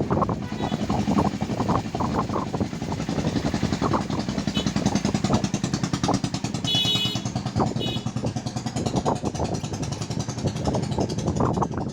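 Coil winding machine running steadily while winding a fan motor coil, with a fast, even rattle over a low hum.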